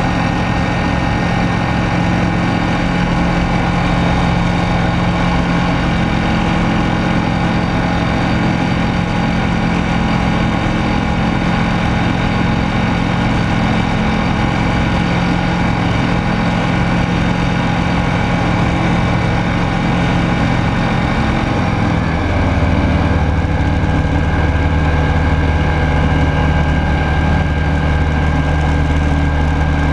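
Rotax 912S flat-four engine and propeller of a Rans Coyote S6 ultralight, running steadily in flight and heard from inside the cockpit. About two-thirds of the way through, the engine note changes and the sound gets slightly louder, a change in power setting.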